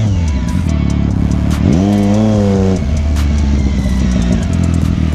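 Vehicle engine running steadily, with one brief rev that rises and falls in pitch about two seconds in.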